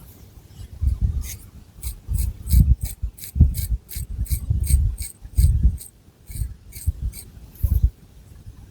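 Long fingernails scratching through thick hair and over the scalp in quick, rhythmic strokes, about three a second, with dull rustling of the hair underneath.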